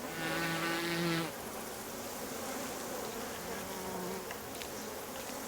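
A flying insect buzzing: a steady hum for about the first second, then a fainter, slightly higher buzz around three to four seconds in, over a soft background hiss.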